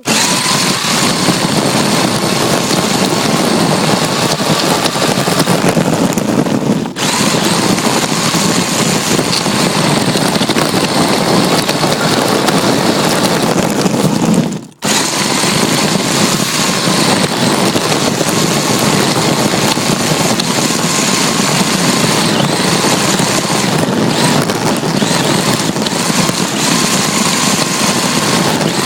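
RC drift car driving, heard from a phone strapped to its chassis: a loud, steady rushing noise of motor, drivetrain and tyres on the ground, with a faint whine over it. The sound drops out briefly twice, about 7 and 15 seconds in.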